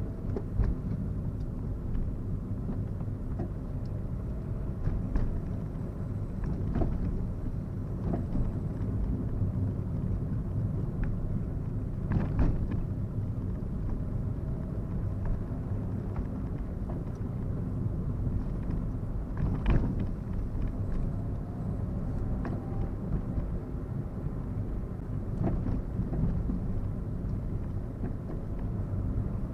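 Car driving along, heard from inside the cabin: a steady low rumble of engine and road noise, with occasional short knocks, the loudest about twelve and twenty seconds in.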